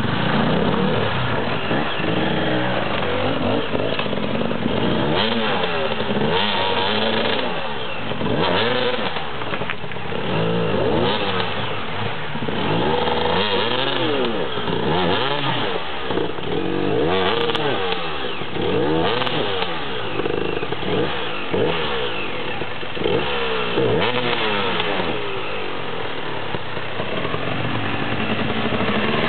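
KTM enduro motorcycle engines revving up and down again and again, each rise and fall taking about a second, as the bikes are ridden and pushed over fallen logs.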